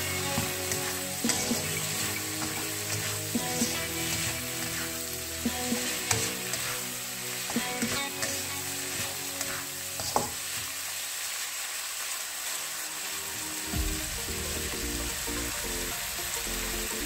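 Prawns and onion sizzling in a wok as a spatula stirs and scrapes them, with scattered sharp clicks of the spatula against the pan. Background music runs underneath, its low beat heavier in the last few seconds.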